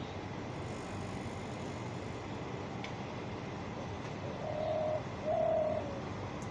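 A bird calling twice, two clear level notes of about half a second each, the second dipping slightly at its end, over a steady background hiss.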